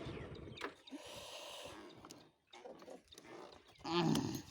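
Motorbike engine running, then dying away within the first second. About four seconds in, a short wavering animal call is heard.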